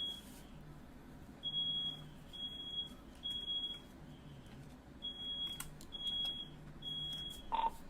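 Smoke alarm sounding its high-pitched evacuation pattern: three short beeps, a pause, then three more, set off by smoke from a firework going off in the room. A brief lower beep comes just before the end.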